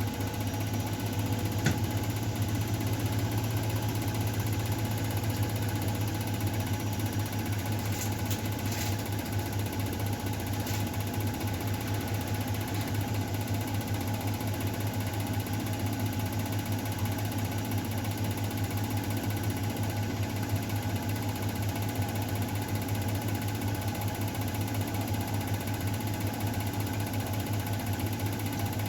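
Miele Novotronic W912 front-loading washing machine running steadily, a constant low hum with a whir over it. A single short tick sounds about a second and a half in.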